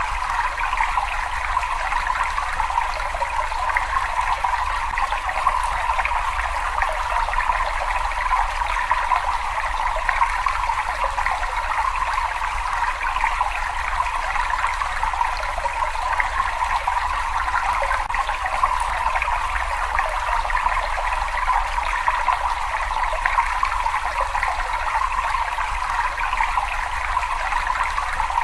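Water running and trickling steadily: an even, unchanging hiss in the middle pitches over a faint low rumble.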